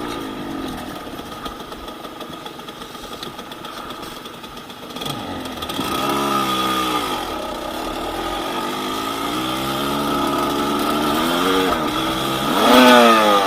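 Yamaha DT200WR's single-cylinder two-stroke engine under way, its revs falling and rising several times as the throttle is worked. There is a sharp, loud rev up and back down near the end.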